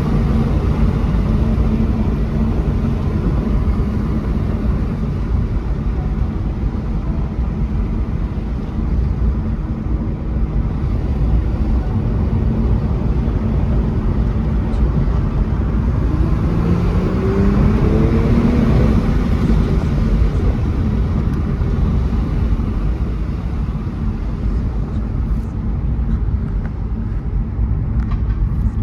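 2018 Mercedes-AMG E43's twin-turbo V6 running under way, with road noise. It holds a steady pitch for most of the drive, then its pitch rises and settles again about two-thirds of the way through as the car accelerates.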